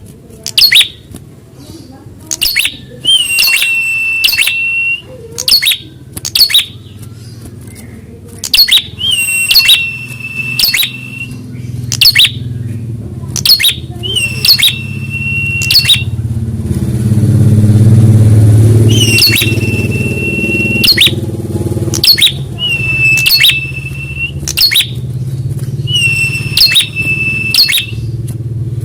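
Prenjak (prinia) calling over and over: sharp, clicking downward notes, some followed by a long, steady, high whistled note. A low engine rumble from a passing motor vehicle swells up and fades about two-thirds of the way through.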